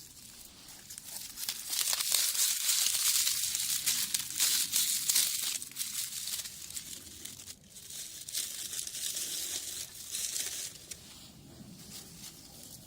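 Crinkling and tearing of paper or plastic being handled, loudest in two spells of several seconds each.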